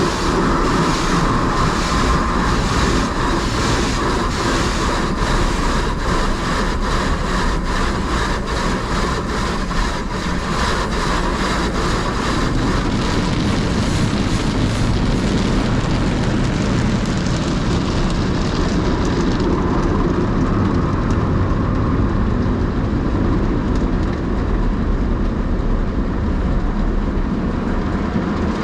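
Automatic drive-through car wash machinery heard from inside the car: equipment and water beating on the body in a rapid regular patter for the first dozen seconds over a steady rush, then giving way to a steadier, deeper rushing noise.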